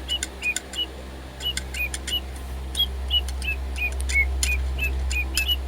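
DigiBird robot toy bird singing on nearly flat batteries: a run of short, clicky electronic chirps, about two or three a second.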